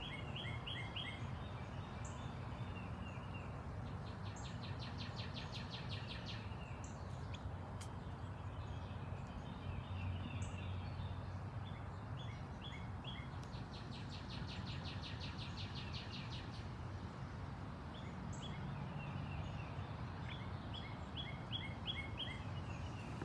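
Birds chirping outdoors: several runs of short high chirps, and twice a rapid trill lasting about two seconds, over a steady low background rumble.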